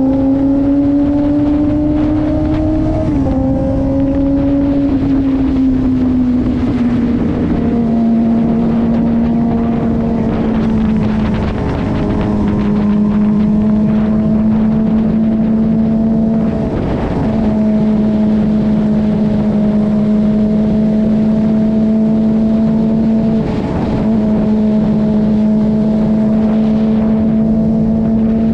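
Suzuki GSX-R600 sportbike's inline-four engine running at a steady cruise. Its note eases down over the first several seconds, then holds level with a few short dips. Wind rushes over the microphone throughout.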